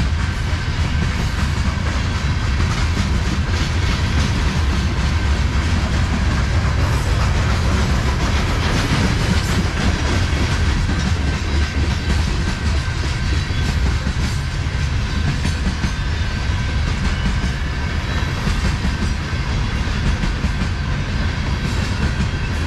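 Loaded coal hopper cars of a freight train rolling past close by: the steel wheels on the rails make a steady, heavy rumble with clatter as they pass over the track.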